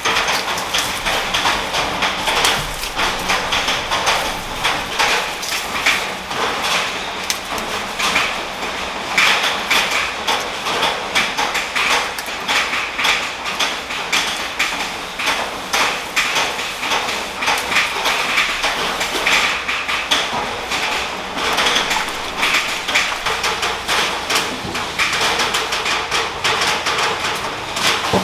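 Rain falling loudly on a corrugated metal roof: a dense, steady clatter of drops.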